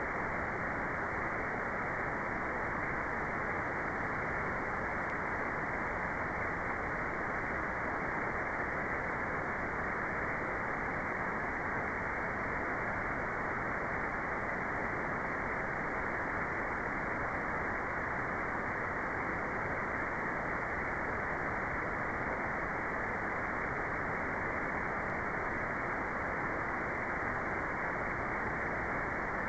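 Steady, unchanging synthetic white noise with the high treble filtered away, giving a dull, even hiss.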